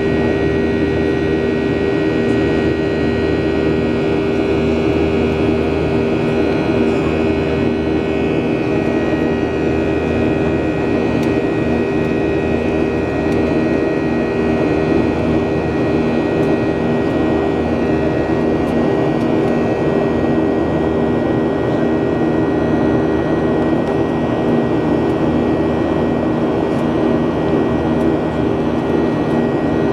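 Boeing 737 jet engines heard from inside the cabin, running steadily with a constant whine and a slight rise in pitch of one high tone about ten seconds in.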